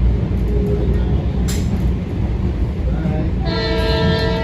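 Metro-North M7 electric train running, with a steady low rumble of wheels on the rails and a sharp click about a second and a half in. Near the end a loud, steady multi-note tone sounds for about a second.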